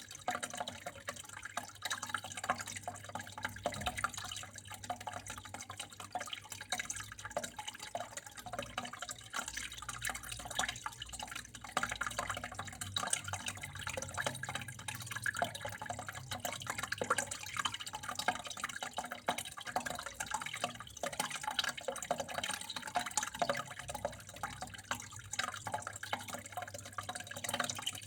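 Water flowing and trickling steadily, full of small drips and splashes.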